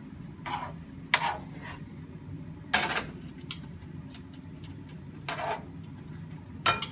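Tongs stirring a sauce in a pan: a handful of brief scrapes and clinks against the pan, one to two seconds apart, over a low steady hum.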